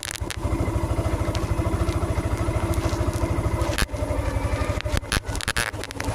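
Motorcycle engine running with a steady, rapid low putter, broken by a few sharp clicks and brief dips in the second half.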